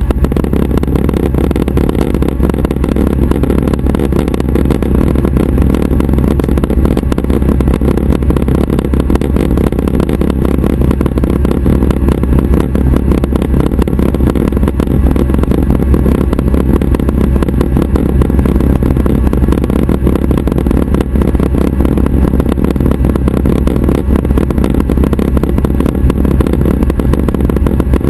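Schweizer 269 light training helicopter running: its piston engine and rotors make a loud, steady drone that holds unchanged throughout.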